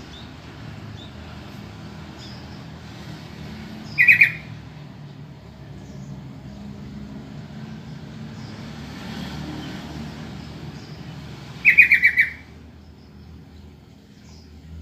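Sooty-headed bulbul (trucukan) calling: two short bursts of rapid, chattering notes about seven seconds apart, over a faint low rumble.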